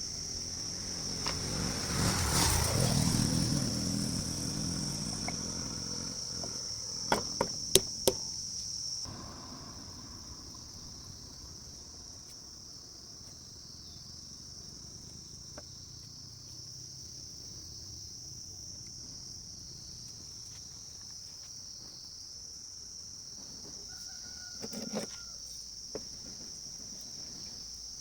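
Crickets chirping steadily in a high, continuous trill. A louder, broader sound swells about two seconds in and fades by four, then a few sharp clicks come around seven to eight seconds.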